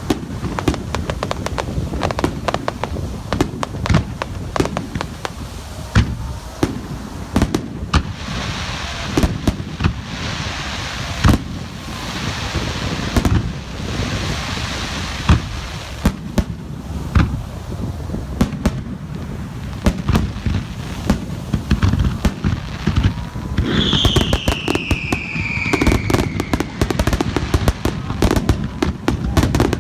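Aerial fireworks display: a dense run of shell bursts going bang after bang, with a spell of hissing crackle in the middle and one falling whistle near the end.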